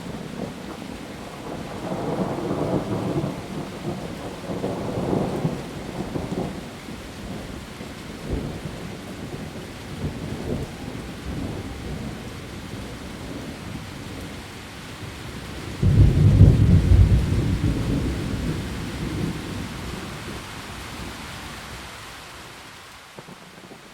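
Heavy rain falling steadily on leaves, with thunder: low rumbles in the first few seconds, then a louder sudden crack about sixteen seconds in that rolls away over several seconds.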